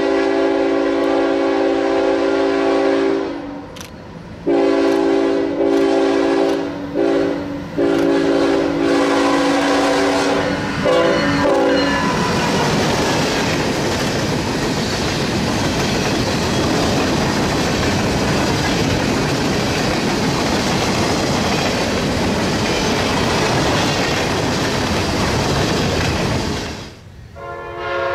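Horn of a CSX GE ES44AC diesel locomotive leading a freight, sounding a series of long blasts. Then the train's freight cars roll past with a steady rumble and the clickety-clack of wheels over rail joints. Right at the end, another train's horn starts.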